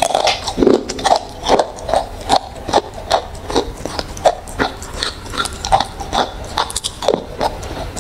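Close-miked crunchy chewing and biting into a crisp, brittle food, with sharp crunches coming about two to three times a second.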